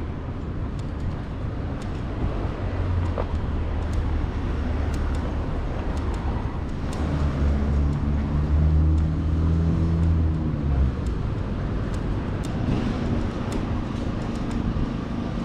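Street ambience with a motor vehicle passing close by: a low engine hum builds, is loudest a little past the middle, then fades away, over faint light clicks.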